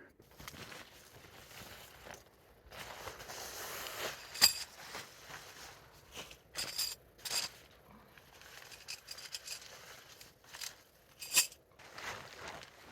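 Handling and rustling of a nylon tarp and camping gear while pitching a shelter, with scattered sharp clicks, the loudest about four seconds in and again near the end.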